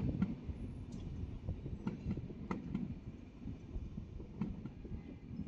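A DSB regional train of double-deck coaches rolling slowly into the station: a low rumble with a few irregular sharp clicks, fading as the last coaches move away.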